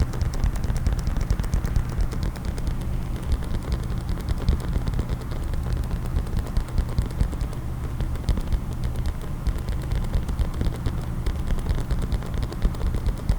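Rapid, continuous tapping on a case, many quick taps a second with no break.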